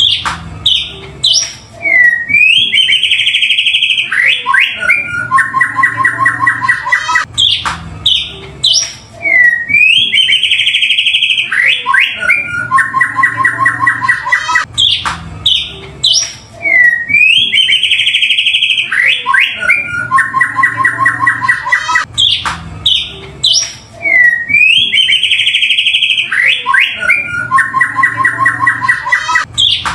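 White-rumped shama (murai batu) song played as a loop: a buzzy rattling trill, then a loud whistled phrase and quick sweeping notes. The same sequence repeats about every seven and a half seconds, four times over. It is a lure track meant to provoke caged shamas into singing.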